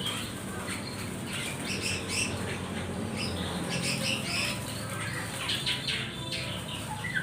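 Caged small birds fluttering their wings in short, scattered bouts and giving occasional chirps.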